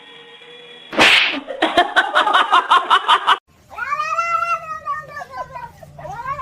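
A cat yowling: two long drawn-out calls that rise and fall, the second near the end. Before them come a sudden loud noisy burst about a second in and a quick run of rapid pulsing sounds.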